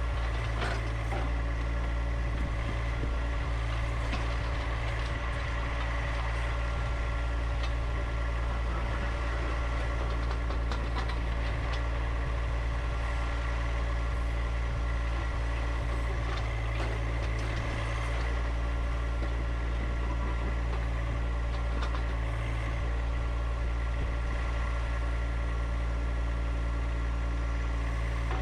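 Engine idling steadily at an even speed, with a few faint clicks over it.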